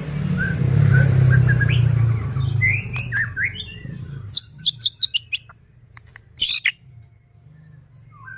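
White-rumped shama (murai batu) singing: whistled notes and pitch glides mixed with sharp, harsh rattling calls. For about the first four seconds a low rumbling noise runs underneath, and it is the loudest sound there.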